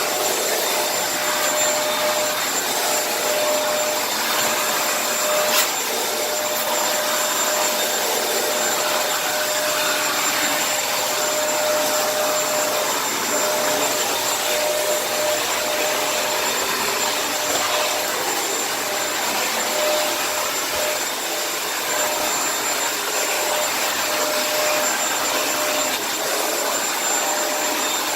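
Kenmore vacuum cleaner running steadily, a constant rushing hiss with a steady whine over it, and a single click about six seconds in.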